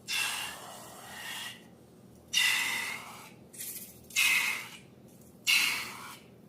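Four short hissing bursts, each about a second long, of air and contents being squeezed out through a balloon's neck.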